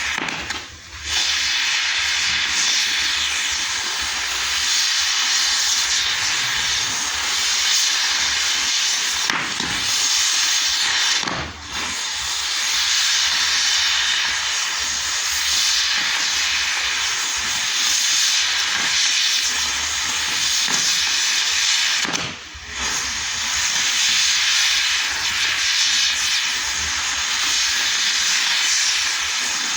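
Continuous loud hissing of firework fountains spraying sparks. The hiss drops out briefly about a second in, again around eleven seconds and again around twenty-two seconds, then resumes.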